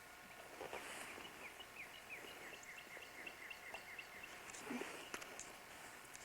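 A bird singing faintly: a run of quick, short down-slurred chirps that come faster and shorter as the phrase goes on, lasting about three and a half seconds. A brief muffled sound follows near the end.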